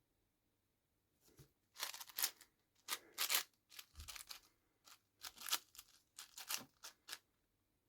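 Layers of a plastic 7x7 speedcube being turned by hand: irregular bursts of scratchy sliding clatter with short pauses between, starting about a second and a half in and stopping near the end.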